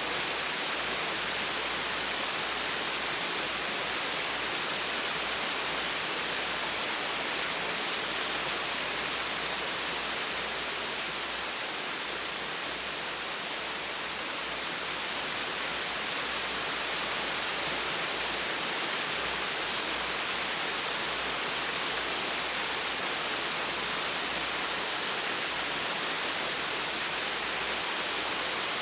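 Small waterfall splashing and rushing steadily, an even hiss of falling water that dips slightly in loudness midway.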